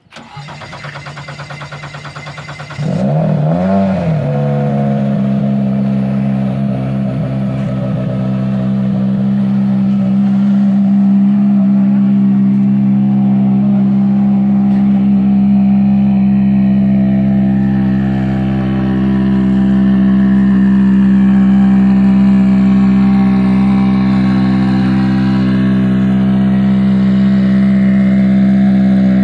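A hard-starting R5's engine turning over on the starter for about three seconds, then catching with a brief rise in revs and settling into a steady idle.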